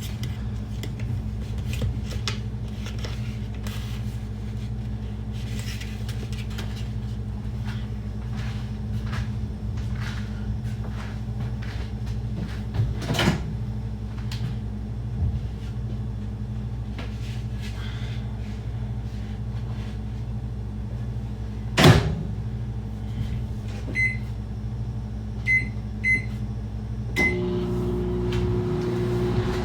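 Microwave oven running with a steady low hum, with light kitchen clicks and one sharp knock partway through. Four short beeps sound near the end, after which the hum changes tone.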